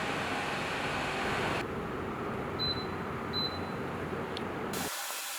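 Evaporative air cooler fan blowing, a steady rushing of air whose tone changes abruptly twice. Near the middle come two short high beeps, under a second apart.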